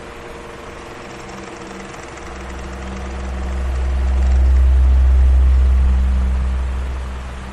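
Electric fan running steadily: a motor hum with an even rush of air. A deep rumble swells up about two seconds in, is loudest around the middle and fades away near the end.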